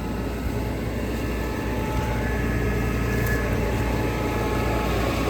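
A steady low rumble that slowly grows louder, with a few faint steady high tones above it.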